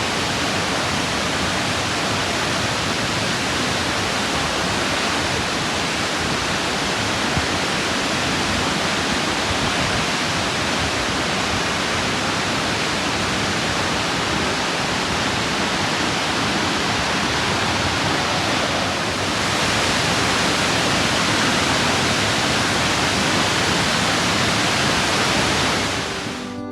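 Burney Falls, a 129-foot waterfall, pouring steadily: an even rush of falling water that gets slightly louder about two-thirds of the way through.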